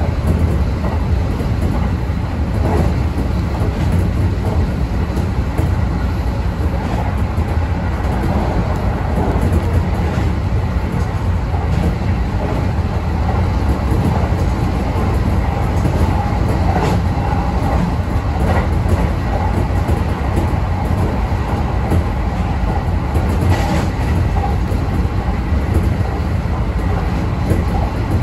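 Electric express train running at speed, heard from inside the leading car: a steady low rumble with a faint steady whine, and occasional sharp clicks as the wheels pass rail joints.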